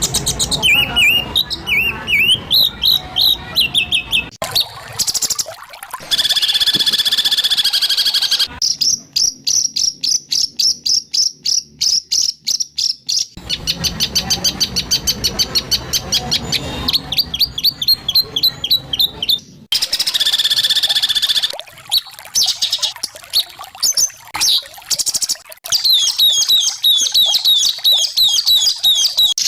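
White-rumped shama song: fast runs of sharp, harsh repeated notes, the rapid-fire 'tembakan' phrases used in shama song training. Several recordings are spliced together, so the song cuts off abruptly and starts again a few times.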